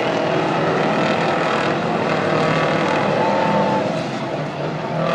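Racing semi trucks' engines running at speed around a dirt oval, a continuous loud engine noise that eases slightly near the end.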